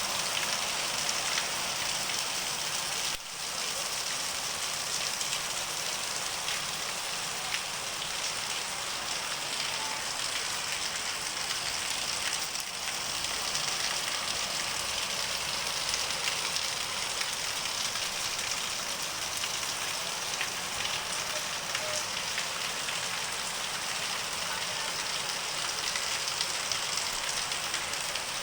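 Heavy cyclone rain pouring steadily, a dense even hiss with many small drop ticks on hard surfaces.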